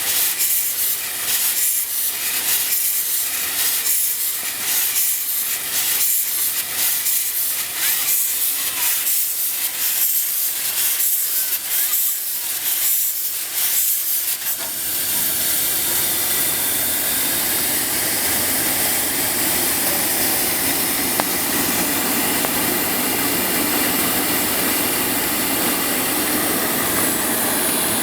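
Bryan steam tractor working under steam: its exhaust puffs in an even rhythm over a background hiss. About halfway through, the puffing gives way to a steady, fuller hiss of escaping steam.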